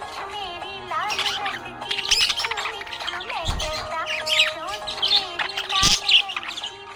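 Budgerigars chirping and warbling: a steady stream of rapid, wavering chirps and short pitch glides. Two short dull thumps come about halfway through and near the end.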